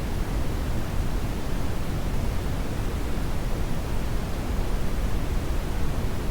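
Brown noise: a steady, deep rushing hiss with no tones or events, its energy heaviest in the low end and falling off toward the highs.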